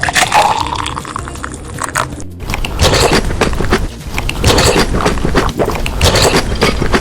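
Close-up chewing and crunching of food, in irregular bursts of crackly bites.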